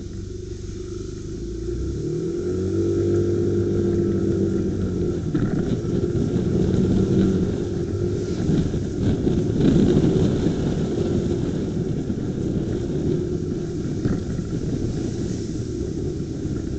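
Motorcycle engine pulling away, rising in pitch about two to four seconds in, then running on at riding speed with steady road and wind rumble, recorded by a dashcam mounted on the bike that has wind-noise suppression.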